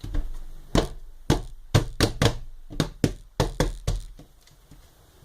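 A quick, uneven series of about ten sharp knocks and taps on a hard surface in the first four seconds, then a few faint handling sounds.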